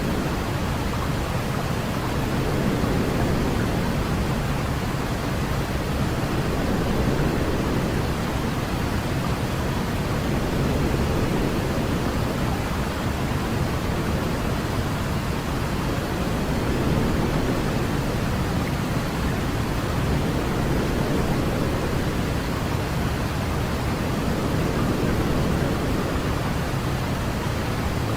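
Steady white noise for lulling a baby to sleep: an even, unbroken hiss, deeper and fuller in the low range than in the highs.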